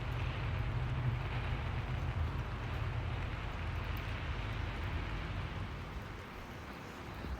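Steady rain hiss over a low rumble; the rumble fades about six seconds in.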